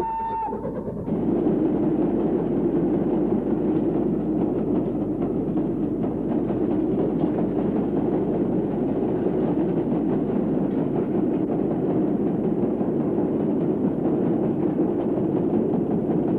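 Train running with a steady rumble that builds about a second in and holds at an even level throughout.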